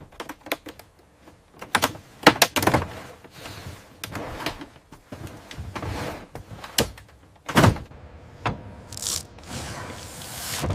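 A run of irregular clicks and knocks, the loudest about two and a half and seven and a half seconds in, with a brief hiss about nine seconds in.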